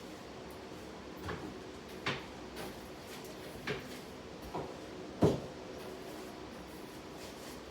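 Household objects being handled while tidying a room: about six scattered knocks and clunks, the loudest about five seconds in, over a faint steady hum.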